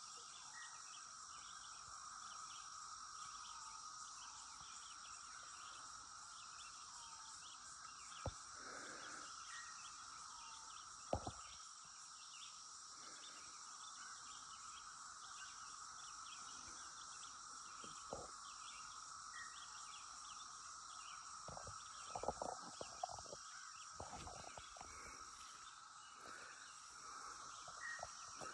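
Chorus of cicadas, a steady drone with a higher continuous whine above it, described as a wild, freaky noise. A few short bird chirps come and go, and a few sharp knocks stand out, several of them close together about three quarters of the way through.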